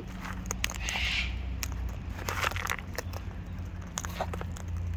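Irregular clicks and crunches of a wild cockatoo's beak chewing food close by, with a brief rustle about a second in.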